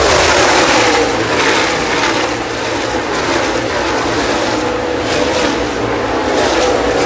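A pack of NASCAR Cup stock cars racing past at full throttle, many V8 engines running loud at once, their notes sliding down in pitch as the cars go by.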